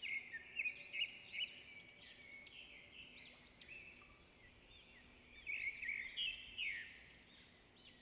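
Small birds chirping and twittering in quick, overlapping calls, with busier bursts near the start and again about two-thirds of the way through.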